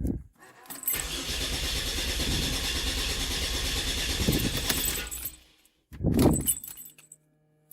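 A 2007 Dodge Nitro's engine cranking on the starter for about four seconds without catching, then a second short crank. It will not fire because the fuel pump is not feeding fuel to the engine.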